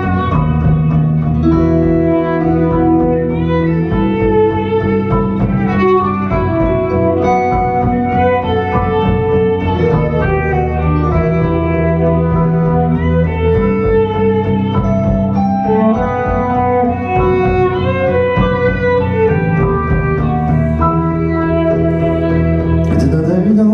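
Live acoustic band playing an instrumental passage of a song: a melody of held notes over a sustained bass line.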